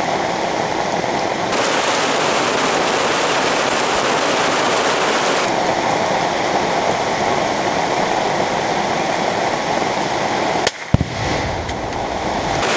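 Heavy rain pouring steadily onto the canopy and the woods, a dense hiss. A single sharp rifle shot cracks about eleven seconds in.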